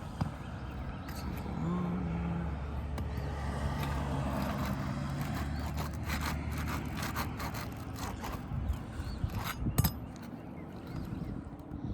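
A motor vehicle's engine running by with a steady low hum, then scraping and sharp clicks of roof shingles being pried up and nails worked loose, the loudest snap near the end.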